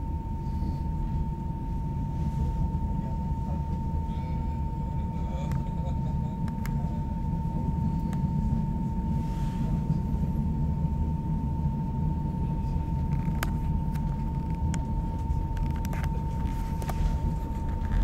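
Inside the carriage of a moving passenger train: a steady low rumble of the wheels on the track, with a constant thin whine running through it and a few faint clicks.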